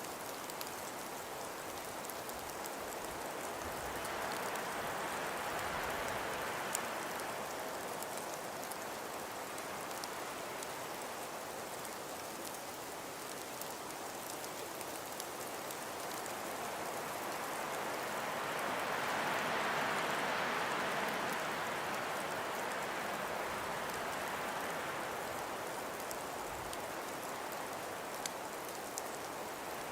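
Wind blowing over a steady hiss of falling snow, swelling in two slow gusts, with fine faint ticking from snow grains striking surfaces.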